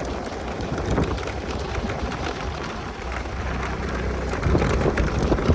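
A vehicle's engine running with a low rumble under a steady rushing noise, with scattered small knocks.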